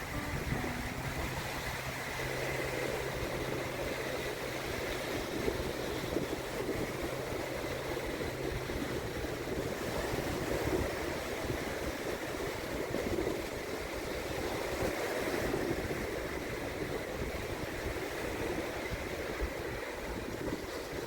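Small waves washing steadily onto a shallow sandy beach, with some wind, the wash swelling and easing. A faint low steady hum runs through the first half.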